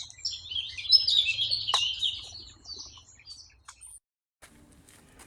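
Songbird twittering: a rapid run of short, high chirps, loudest in the first two seconds and fading out about three seconds in.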